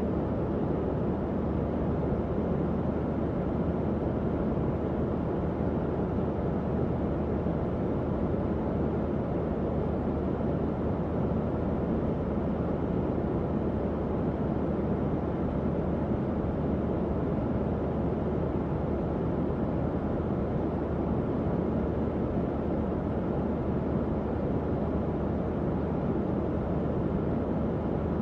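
Tower fan running steadily: an even airy whoosh, weighted low and mid, with a faint low motor hum underneath.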